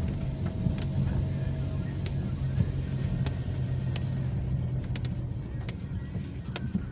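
Car engine and tyre noise heard from inside a moving car: a steady low hum with scattered short sharp ticks.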